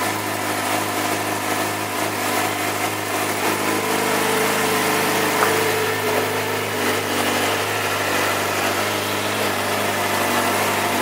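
Yamaha YZF-R6's 599 cc inline-four engine idling steadily.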